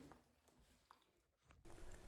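Near silence, with faint background noise coming in near the end.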